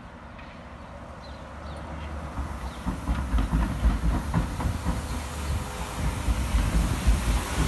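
A tram running on rails, growing louder from about two seconds in, with a low rumble, wheel clatter and rising hiss. Birds chirp faintly at the start.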